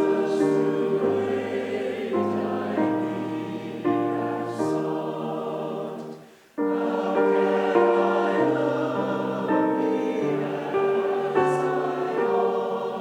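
A group of voices singing a hymn in harmony, holding long chords; one phrase ends about six seconds in and the next begins after a brief breath.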